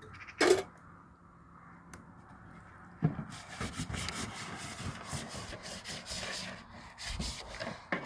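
A single knock about half a second in, then from about three seconds in a continuous rough rubbing and scraping of a cloth scrubbing a surface.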